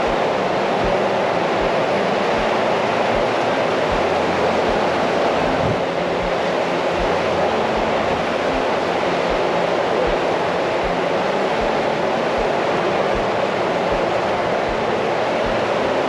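Strong wind rushing over the microphone mixed with the wash of surf, with soft low thumps about every two-thirds of a second from footsteps while walking.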